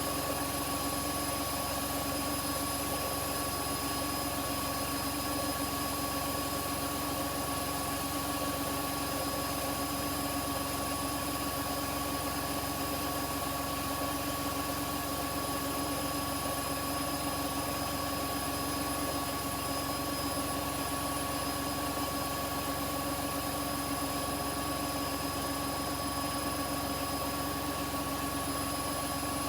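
Front-loading washing machine spinning at high speed: a steady motor and drum whine with several constant tones over a rushing hum.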